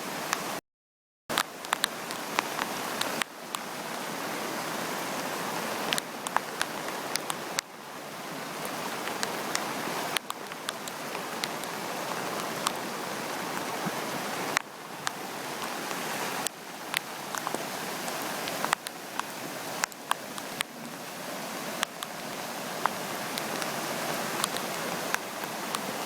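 Steady rush of the Oda River, swollen by typhoon rain, with rain falling and frequent sharp ticks on top. The sound cuts out completely for about half a second near the start.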